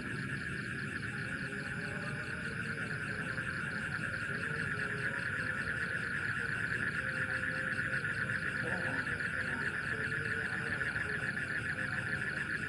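Night insects, crickets among them, trilling in a steady chorus, a rapid high pulsing that does not let up.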